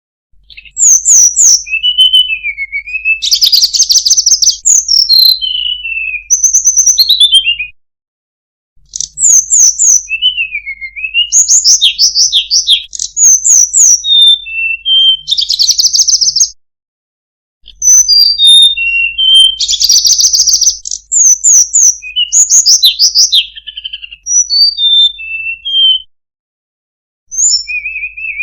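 Tledekan gunung songbird singing a rapid, varied, melodious song of high whistles, chirps and trills, in bouts of about eight seconds broken by brief pauses.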